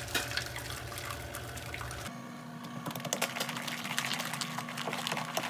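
A sponge full of laundry-soap suds being squeezed: wet squelching and dense fine crackling of the foam, with water running off.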